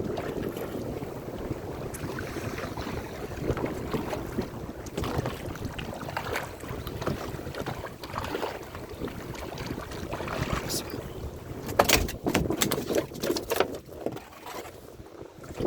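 Wind on the microphone and sea wash aboard a small fishing boat, with a cluster of sharp knocks and clatters about eleven to fourteen seconds in.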